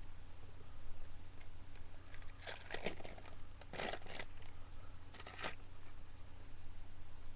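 Foil trading-card pack wrapper being torn open and crinkled in three short crackly bursts.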